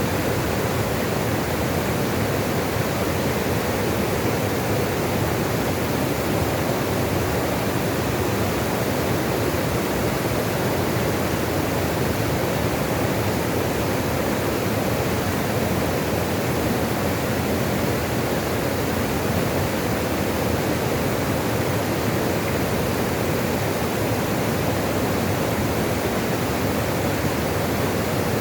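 Running water rushing steadily and evenly, a full unbroken hiss with no splashes or changes.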